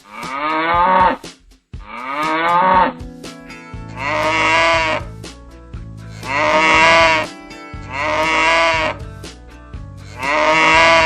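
Cattle mooing: six separate calls of about a second each, every one falling in pitch, spaced roughly two seconds apart. Background rock music comes in about three seconds in.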